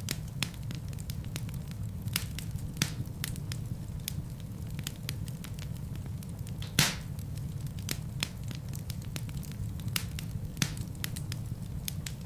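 Wood fire burning in a fireplace: a steady low rumble of flames with frequent crackles and pops of burning logs, one loud pop about seven seconds in.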